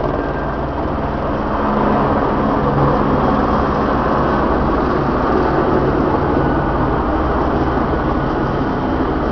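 Helicopter running close by, a loud steady din of rotor and engine that builds a little over the first two seconds and then holds.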